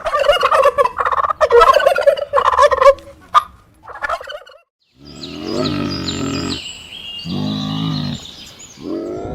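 Turkey gobbling: a fast, rattling call lasting about three seconds, the loudest sound here. After a short break, a different, lower-pitched animal call with higher chirps over it goes on for about four seconds.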